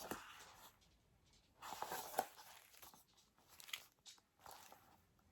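Faint rustling and light clicks of stiff paper being handled in a few short bursts, as calendar pages are turned.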